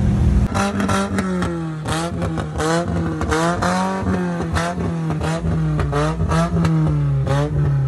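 Modified car engine revved in quick repeated throttle blips, each rise and fall in pitch starting with a sharp crack, about two a second, over a steady engine drone.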